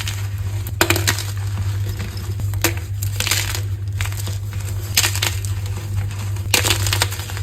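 Dyed gym chalk crunching as it is crushed: about five crisp crunches a second or two apart, over a steady low hum.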